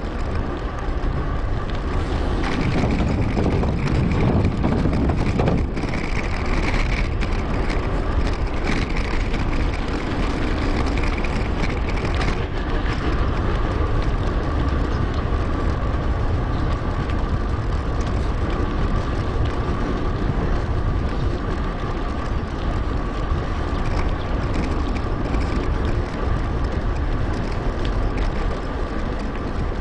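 Riding noise from a mountain bike on the move, played back sped up: wind rushing over the action camera's microphone and tyre rumble, with a thin steady whine throughout.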